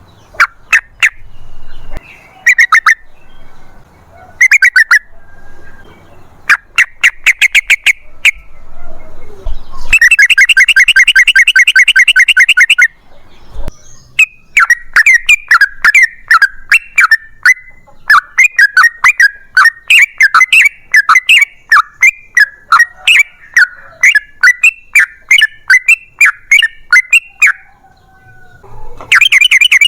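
Yellow-vented bulbul (trucukan) singing in loud, rapid strings of bubbling notes. Short bursts come first, then a dense fast run about ten seconds in, and a long unbroken series of notes through most of the second half.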